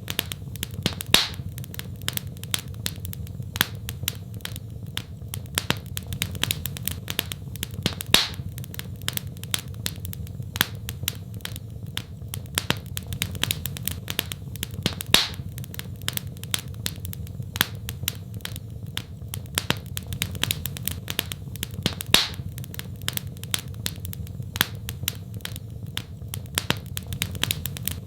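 Wood fire in a fireplace crackling: a constant patter of small snaps and pops over a low steady rumble, with a louder pop every seven seconds or so.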